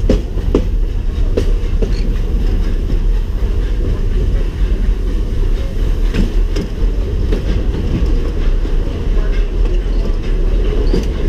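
Walt Disney World Railroad steam train's passenger car rolling along the track: a steady low rumble, with the wheels clacking over the rails now and then.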